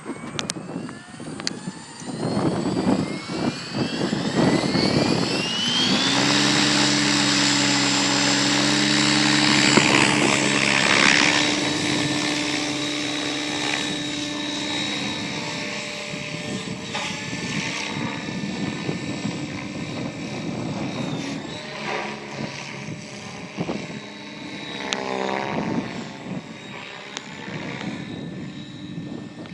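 Align T-Rex 700E electric RC helicopter spooling up: the motor and rotor whine rises in pitch over the first several seconds. It then settles at a steady head speed, and the pitch wavers up and down later on as the helicopter flies.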